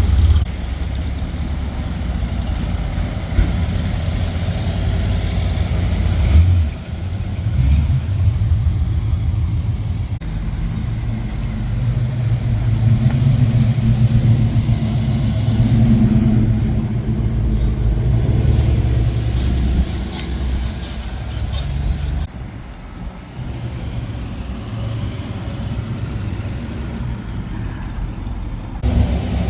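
Car engines running, a low rumble that swells and fades as vehicles move past.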